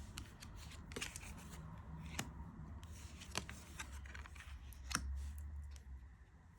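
Playing cards being handled on a table: a few light clicks and taps, about one a second, with soft sliding in between.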